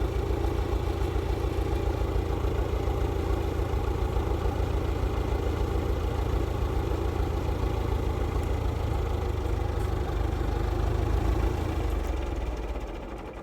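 A motor engine running steadily at a low, even rhythm, then dying away near the end.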